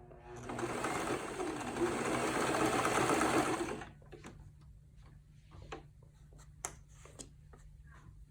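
Domestic sewing machine stitching in one steady run of about three and a half seconds, then stopping. After it stops come a few light clicks and rustles, over a faint steady hum.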